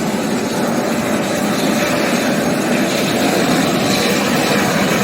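Steady engine and rotor noise of tour helicopters running at a helipad, growing slightly louder.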